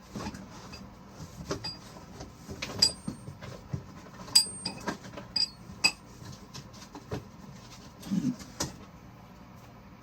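Metal tools and engine parts clinking and knocking as they are handled, in irregular sharp clicks, some with a short metallic ring. The loudest come about three, four and a half, and six seconds in, with a duller knock near the end.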